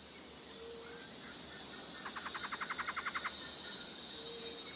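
Animal ambience: a steady high insect hiss, short low hoot-like calls about half a second in and again near the end, and a rapid trill of about nine pulses a second starting about two seconds in and lasting just over a second.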